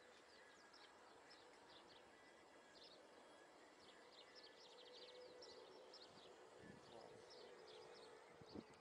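Faint outdoor background of small birds chirping in quick high trills, over and over. A faint steady hum joins about halfway through, and there are a few soft bumps near the end.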